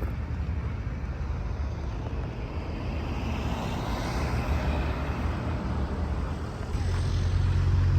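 A vehicle passing by: its noise swells to a peak around the middle and fades, with no clear pitch, over a steady low rumble.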